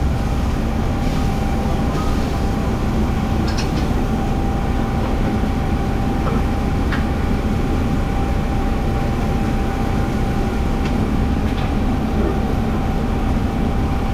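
Steady low rumble of a running vehicle, with a constant thin hum over it and a few faint clicks.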